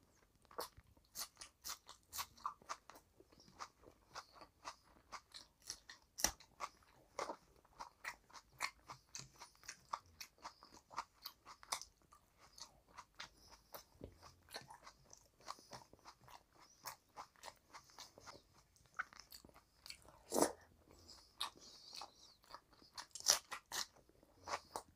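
Close-miked chewing of a mouthful of rice and curry eaten by hand: a steady run of short, wet smacking and clicking mouth sounds, with a few louder smacks.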